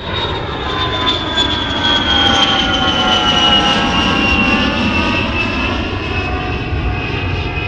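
Airplane engines running: a steady low rumble with a high whine that slowly falls in pitch.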